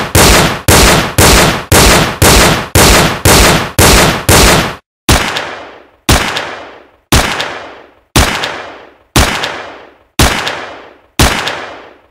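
Gunshots in a steady rhythm, about two a second for the first five seconds. Then, after a short gap, seven more shots come about a second apart, each ringing out and fading away.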